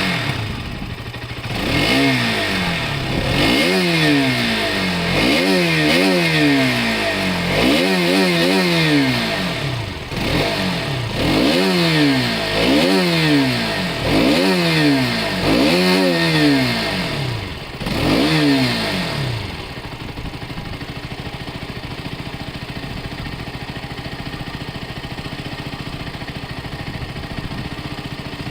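Motorcycle engine, just started, revved in a dozen or so quick blips, each rising and falling in pitch about once a second. It then settles into a steady idle for the last several seconds.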